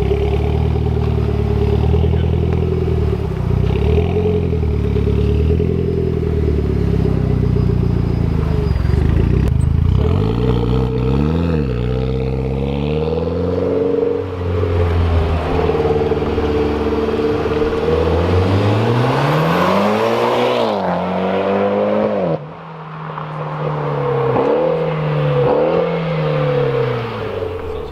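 Mitsubishi Lancer Evolution X's turbocharged four-cylinder engine, heard through an aftermarket exhaust, pulling through the revs. The pitch rises and falls with gear changes, drops off sharply about three-quarters of the way in, then comes back as a run of short throttle blips: rev-matched heel-and-toe downshifts.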